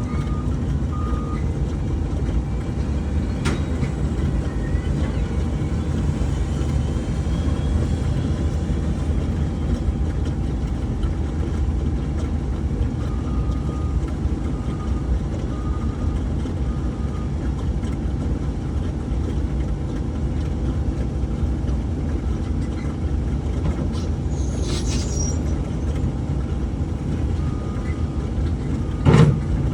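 Steady low rumble of running heavy machinery, with a backup alarm beeping in short runs three times and one loud metallic clank near the end.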